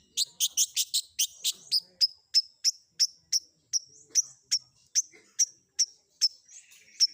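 Long-tailed shrike (cendet) song recording: sharp, high chirps repeated in a fast flurry for the first couple of seconds, then settling into a steady series of about three a second.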